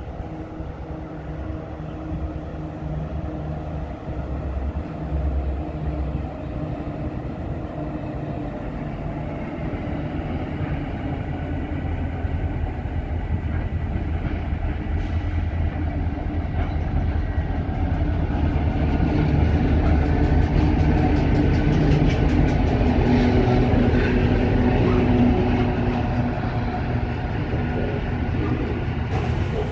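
Diesel freight train with several locomotives approaching and running through a station: the locomotives' diesel engines run with a low, steady hum that grows louder as they draw near, loudest about two-thirds of the way in, then freight wagons roll past.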